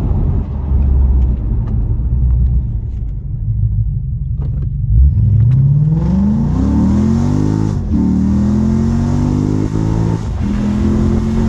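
Lexus IS F V8 running through a custom exhaust with a stainless X-pipe and smaller straight-through resonators. It idles with a low rumble for about five seconds, then accelerates with its pitch rising, dips briefly near eight seconds, and runs on at a steady higher note.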